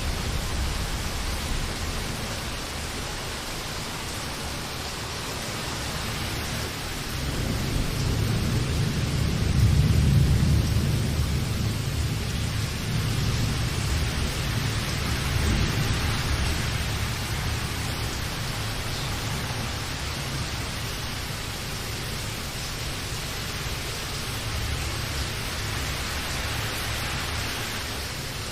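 Steady rainfall hissing, with a low rolling rumble of thunder that swells about seven seconds in, is loudest around ten seconds in, and then fades back under the rain.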